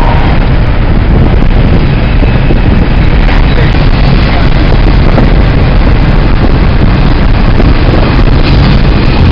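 Loud, steady wind and road noise of a car at highway speed, with wind buffeting the microphone.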